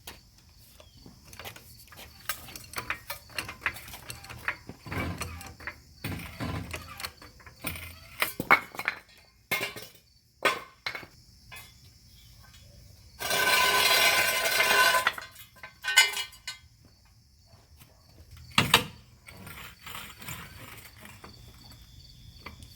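A wheel being refitted and its lug nuts run on by hand: scattered metallic clinks and ratchet clicks, with a power tool running for about a second and a half partway through.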